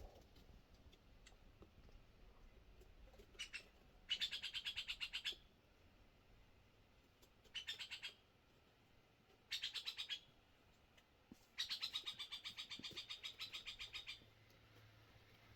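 A bird singing rapid rattling trills, five in all, the last and longest lasting nearly three seconds.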